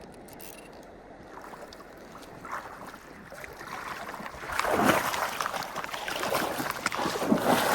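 Stream water running, with louder irregular splashing from about four and a half seconds in as a hooked cutthroat trout is played and brought in on a fly rod.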